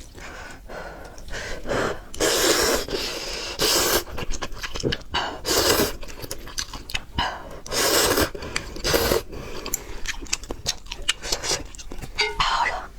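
Close-miked eating of spicy noodles: about six short, loud, noisy slurps and sharp breaths, with small chewing and mouth clicks between them.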